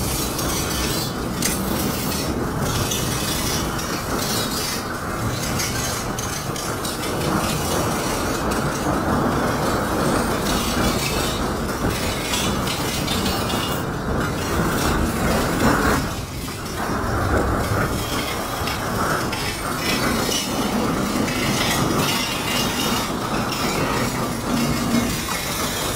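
Freight train rolling past at close range: a steady rumble and rattle of the cars on the rails, with metallic clanks now and then.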